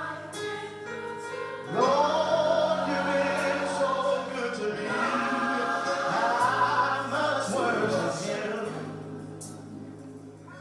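Gospel worship singing by a choir, with voices swelling in about two seconds in and holding long notes over steady low instrumental backing. The singing fades toward the end.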